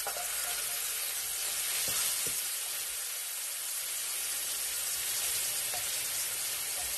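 Small pieces of seasoned chicken sizzling steadily in oil in a hot pan, just after being dropped in.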